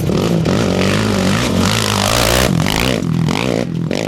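Off-road racing motorcycle engine revving up and down, with a loud rush of noise for about a second near the middle.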